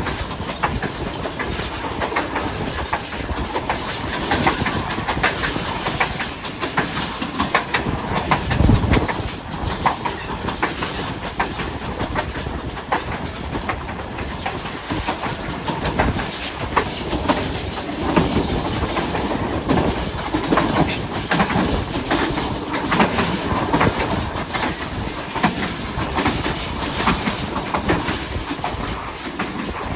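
Hazara Express passenger train running, its wheels clattering steadily over the rail joints in a continuous rumble, with a heavier low thud about nine seconds in.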